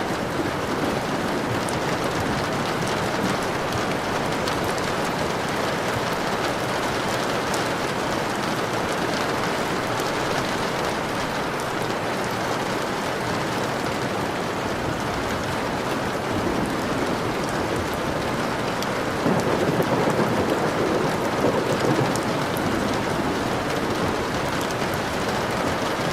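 Steady rain falling, with a low rumble of thunder swelling about two-thirds of the way through.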